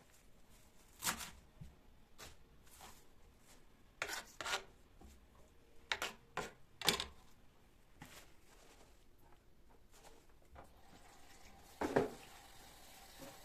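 Light kitchen handling sounds: a handful of short, scattered knocks and rustles, as of produce and containers being handled on a counter. A faint steady hum comes in about two-thirds of the way through.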